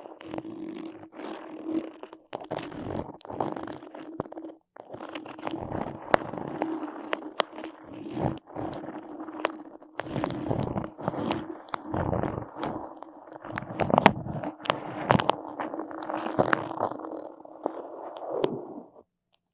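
Close-miked sticky sounds: crackling, peeling and scraping on a tacky surface, dotted with many sharp clicks and pops. It stops abruptly near the end.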